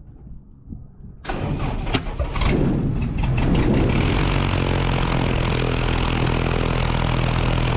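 Light aircraft's propeller engine starting: it comes in suddenly about a second in, runs unevenly as it catches for a couple of seconds, then settles into a steady run.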